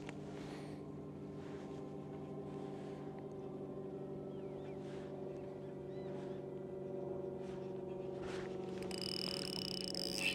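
Boat motor running steadily with an even low hum, while faint swishes come and go over it. A high steady tone joins near the end.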